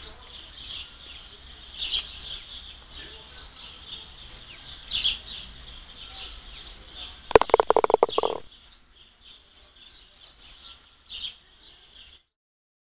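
Small birds chirping over and over in short, high, falling chirps. A loud, rapid rattling clatter lasting about a second comes just over seven seconds in. The sound cuts off shortly before the end.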